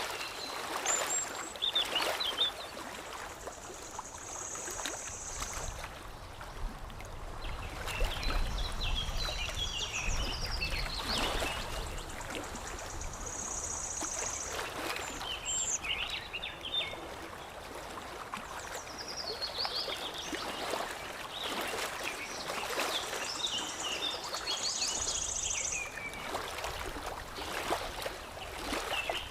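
Songbirds chirping and singing, with a buzzy high trill that comes back three times, over water lapping and trickling.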